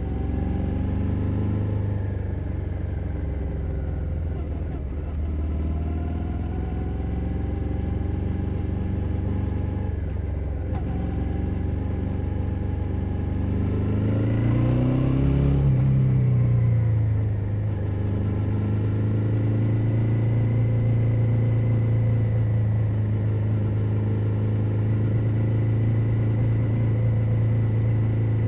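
A 2021 Suzuki SV 650's 645 cc V-twin engine running while riding, heard close from under the seat. The engine note holds steady, rises and falls about halfway through, then settles into a steady cruise.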